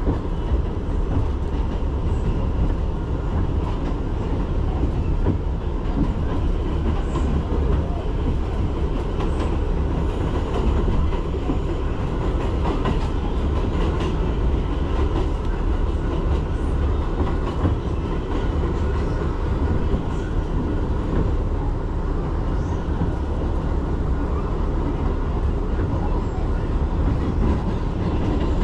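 New York City subway 6 train running between stations, heard from inside the car: a steady rumble of wheels on track with faint clicks.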